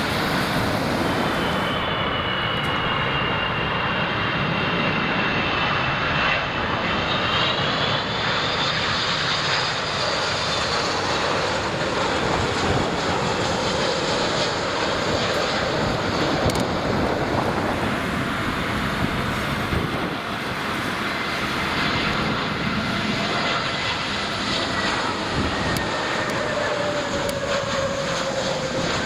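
Jet airliner engines passing overhead as a steady, dense rush of noise. Thin whining tones climb over the first several seconds, and another tone falls slowly through the second half.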